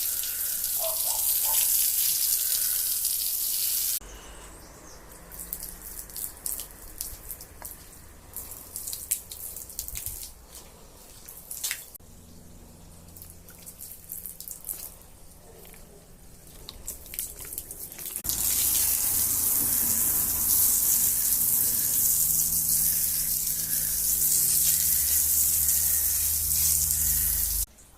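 Running water in three stretches: a steady loud rush of water, then a quieter spell with scattered drips and splashes, then the loud rush again, cutting off sharply near the end.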